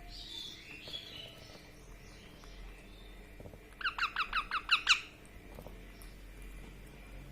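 Baby parrot calling: faint high calls at the start, then about four seconds in a quick run of about eight short rising chirps lasting about a second.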